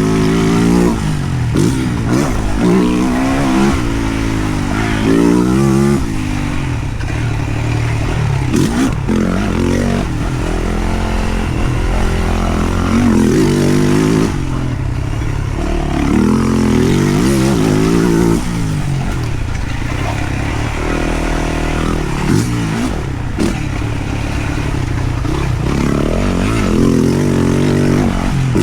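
2023 Yamaha YZ450F motocross bike's single-cylinder four-stroke engine revving up and backing off over and over as it is ridden round a dirt track.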